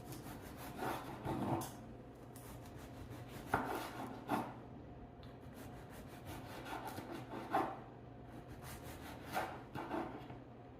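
Knife slicing a tomato on a cutting board: soft sawing cuts broken by a handful of sharper knocks of the blade against the board, coming irregularly every second or two.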